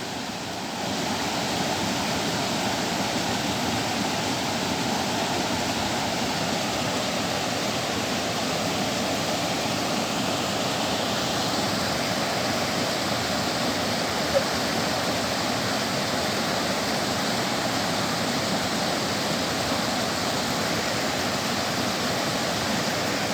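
Steady rush of water flowing over a dam.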